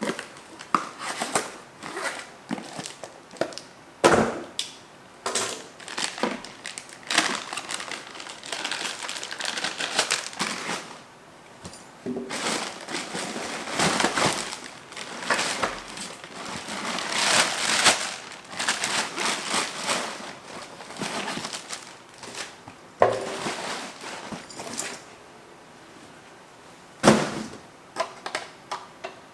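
Plastic packaging crinkling and rustling as it is handled, in irregular bursts, with a few sharp knocks of the tool or parts being handled, the loudest about four seconds in and again near the end.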